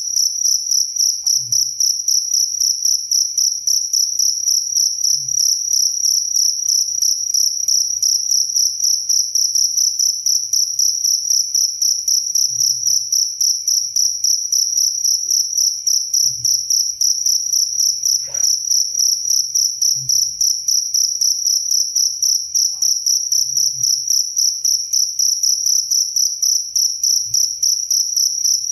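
Cricket chirping: a steady, high-pitched, evenly pulsing trill that never pauses.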